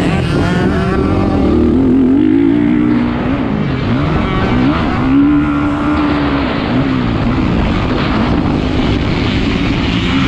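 450cc motocross bike engine revving hard and easing off again and again, its pitch rising and falling every second or two as the throttle opens and closes.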